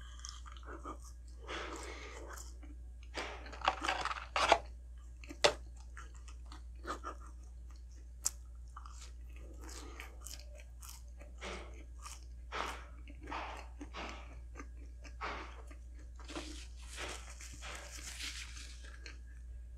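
Close-miked eating sounds: a person biting and chewing McDonald's food, with irregular crunches and mouth clicks, loudest in a cluster about four seconds in.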